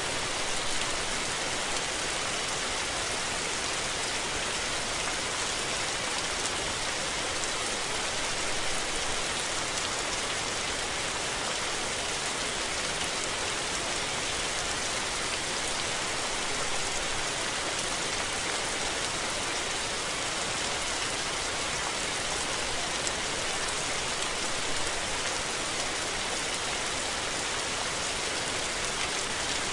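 Rain falling steadily, an even hiss of many drops with no breaks or swells.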